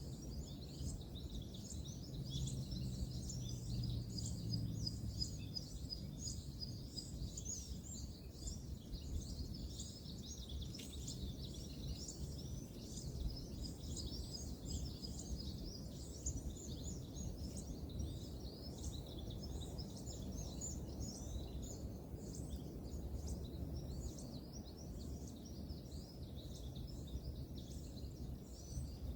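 Many small birds chirping and twittering together over a steady low rumble of distant road traffic. For the first few seconds the low rumble is a little stronger.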